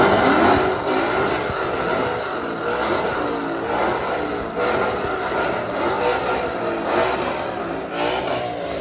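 A loud car engine revving and running.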